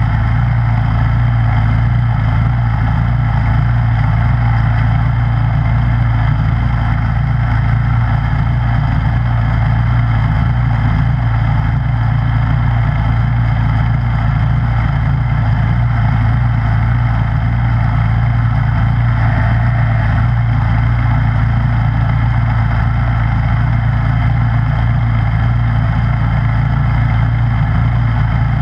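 Snowblower engine running steadily at an even, unchanging speed.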